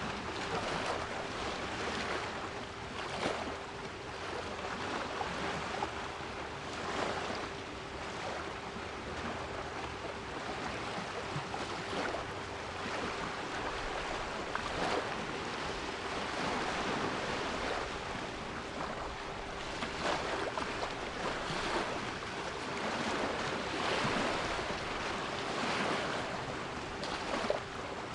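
Sea waves washing in, rising and falling in surges every few seconds, with a steady 396 Hz pure tone held underneath.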